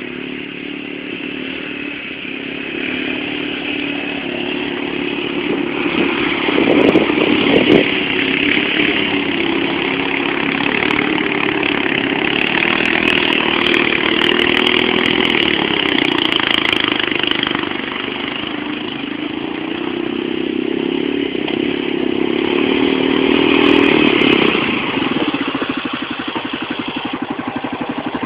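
Motorcycle engine running, growing louder over the first few seconds, revved up about seven seconds in. Its pitch climbs again toward a peak near the end, then falls back to an even, fast-pulsing run.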